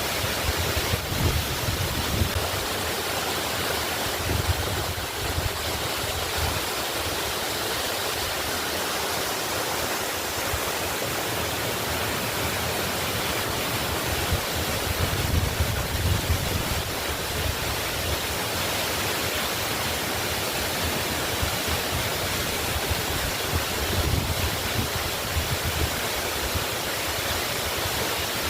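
Waterfall rushing steadily, an even wash of falling water with a deeper rumble that swells every few seconds.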